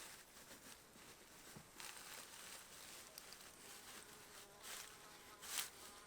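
Faint buzzing of a flying insect over quiet outdoor background, with a few soft rustles, the loudest about five and a half seconds in.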